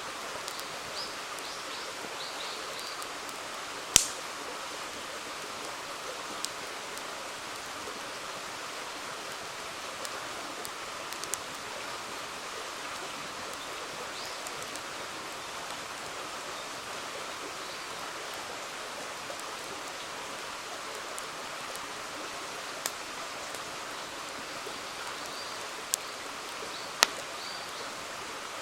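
Steady rush of a flowing river, with occasional sharp pops and cracks from a wood campfire; the loudest pop comes about four seconds in, and a few more come near the end.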